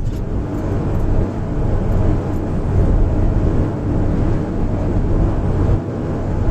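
Daihatsu Hijet Cargo kei van engine and road noise while driving, a steady low hum that dips briefly about six seconds in.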